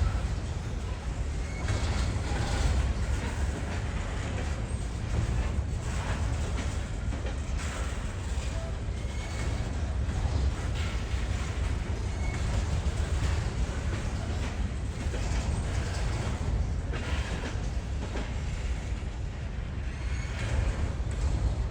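A train rolling past: a steady low rumble with irregular clicks and clatter from the wheels on the rails.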